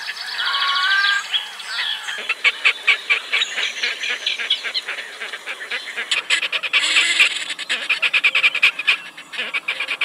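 Bird calls: a few bending call notes at the start, then from about two seconds in a dense, rapid run of short chirps.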